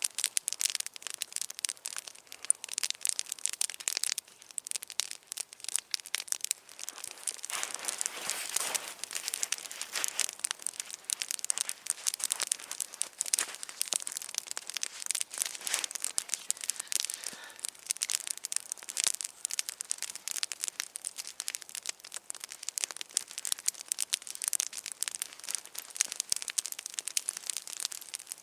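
Campfire crackling, with many irregular sharp pops and snaps.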